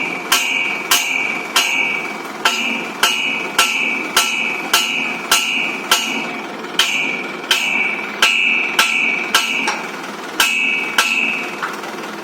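Hammer blows on metal, about two a second with a couple of short pauses, each blow ringing briefly.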